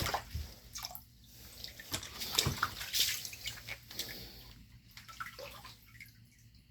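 Shallow floodwater on a basement floor splashing and sloshing in irregular bursts, loudest about two to three seconds in, then fading.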